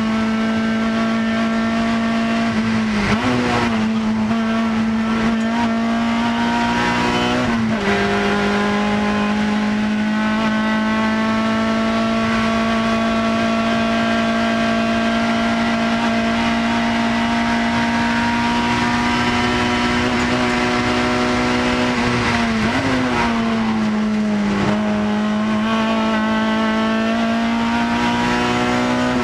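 Naturally aspirated Honda K24 inline-four in a swapped S2000 race car, heard from inside the cabin running hard at high revs on track. The engine note holds an almost steady pitch for long stretches, dropping sharply about 3 and 8 seconds in and again about 23 seconds in before climbing back.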